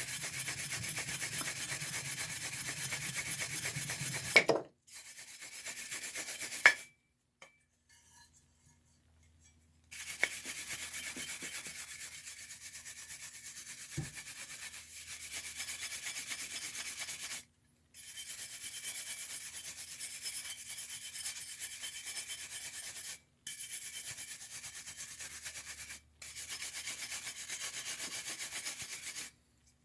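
Stiff bristles of a shoe polish brush scrubbing wax over a die-cast toy locomotive shell in rapid back-and-forth strokes. The brushing runs in long stretches with brief pauses, the longest a few seconds' break about seven seconds in.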